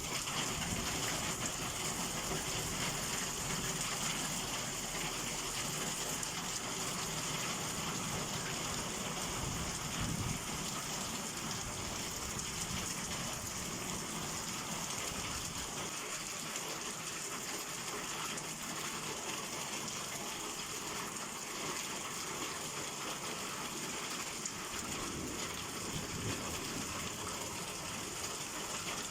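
Heavy summer downpour: steady rain falling on surfaces, with one brief louder spot about ten seconds in.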